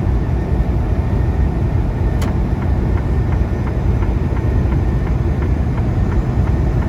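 Steady low engine and road rumble inside a semi truck's cab while driving at highway speed, with a single sharp click about two seconds in and faint regular ticking after it.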